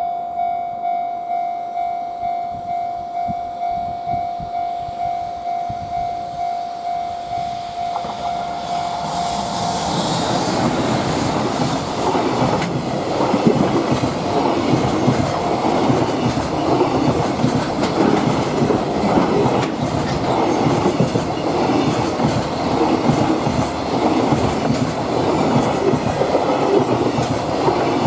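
A freight train passing at speed, its wheels clacking over rail joints, arriving about ten seconds in. Before it, a single-pitched warning tone pulses about twice a second, then stops as the train arrives.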